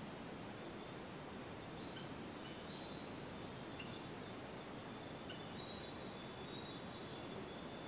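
Faint, distant songbirds: a few short high chirps scattered through, and a thin high held note in the second half, over a steady hiss of outdoor ambience.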